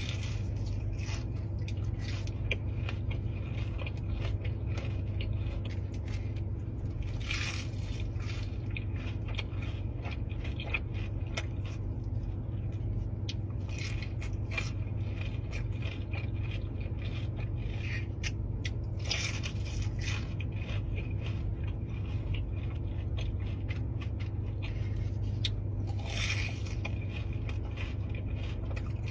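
Close-miked eating: chewing and crunching with many small clicks and scraping, with a few louder crunchy bites, over a steady low hum.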